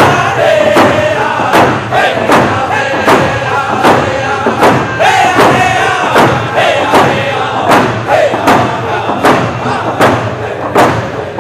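Round dance song: a group of singers chanting together over a steady hand-drum beat, about four beats every three seconds.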